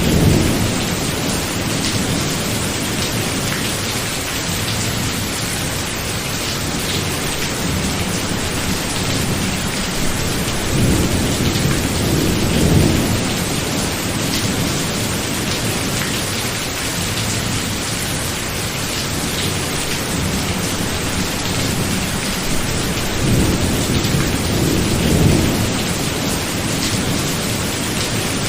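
Thunderstorm: steady rain with low rumbling rolls of thunder at the start, around the middle and again near the end.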